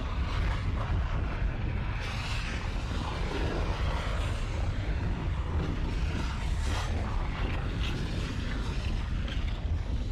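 Wind buffeting the microphone outdoors: a steady, fluttering low rumble with a rushing hiss above it.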